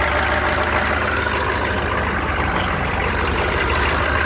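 1995 Chevy K3500's 6.5-litre turbo diesel V8 idling steadily.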